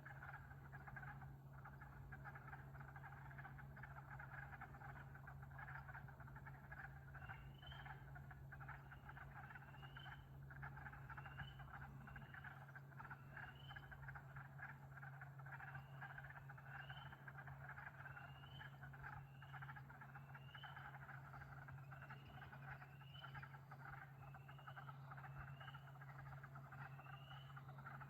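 A frog chorus calling continuously and faintly: a dense trilling layer, with short rising peeps about once a second over it. A steady low hum runs underneath.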